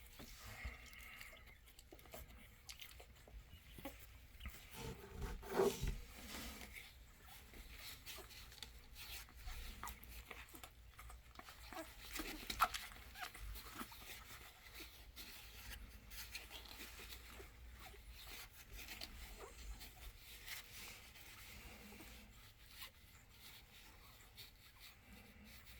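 American Bully puppies nursing: faint suckling smacks, shuffling and small squeaks, with a brief louder puppy cry about five to six seconds in.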